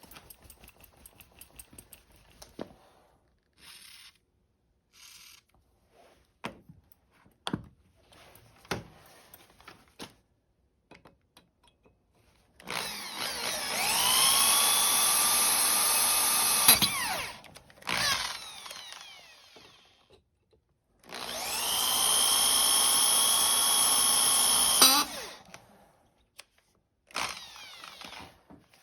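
Electric drill run twice, each time spinning up with a rising whine to a steady speed for about three to four seconds before stopping. Scattered light clicks and knocks of handled parts come before, between and after the two runs.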